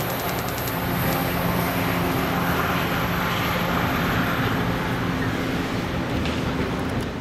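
Diesel locomotive pushing a bilevel commuter train away: a steady engine drone over the rush of wheels on rail, with a few light clicks in the first second. The sound drops off near the end as the train recedes.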